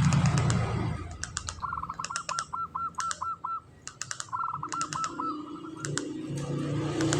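Perkutut (zebra dove) singing: two quick runs of short, clipped cooing notes, with sharp clicks between them. This is the 'kantong semar ngretek' song style kept by perkutut fanciers.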